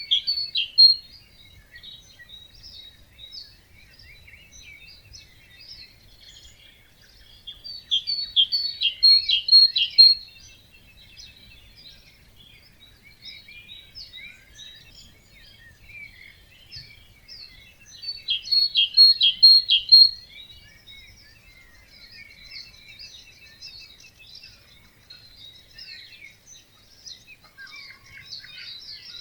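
Dawn chorus of many birds at a wetland, with one bird's loud song phrase of rapid, strengthening notes about two seconds long, repeated about every ten seconds, over a steady background of quieter chirps and calls from other birds.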